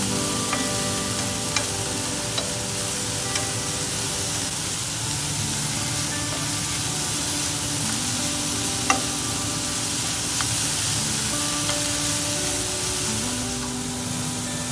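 Sliced bitter melon sizzling in hot oil in a wok while it is stir-fried with wooden chopsticks, with a few sharp clicks of the chopsticks against the pan. Soft background music with held notes plays underneath.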